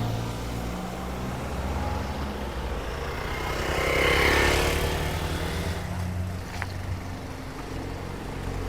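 A road vehicle's engine running steadily on the move, with a louder swell of road noise peaking about four seconds in.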